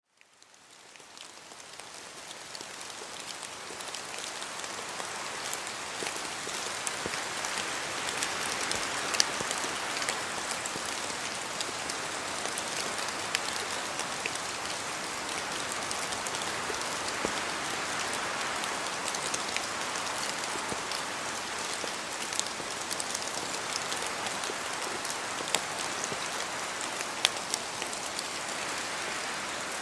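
Steady rain falling in a forest, with many separate drops dripping from the trees onto leaves; it fades in over the first few seconds.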